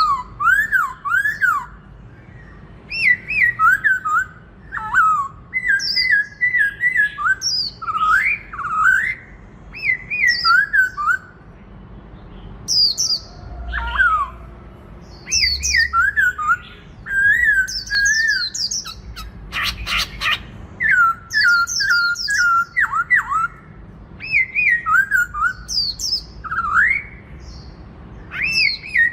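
Black-throated laughingthrush singing its loud, aggressive fighting song: short phrases of clear whistled notes sliding up and down, repeated with brief pauses between them. A short run of sharp clicks about twenty seconds in.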